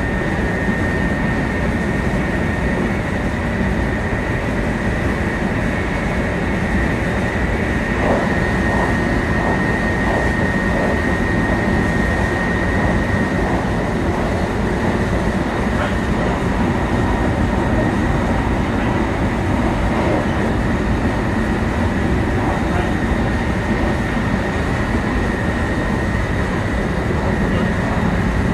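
Running noise of a 700 series Shinkansen heard from inside the car: a steady, dense rumble of wheels on rail and air rushing past, with a constant high whine running through it.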